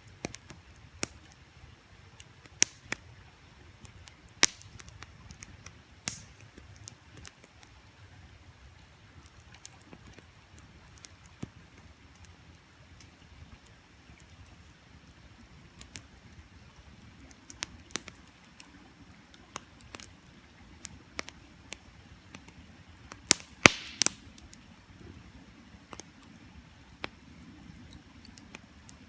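Wood campfire crackling, with sharp pops at irregular intervals and a cluster of the loudest pops about two-thirds of the way through. Beneath it runs the faint low rush of a creek.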